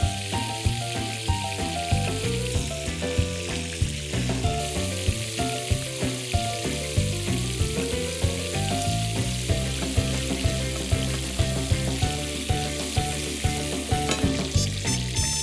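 Meatballs frying in hot oil, a steady sizzle, with background music carrying a steady beat and bass line underneath.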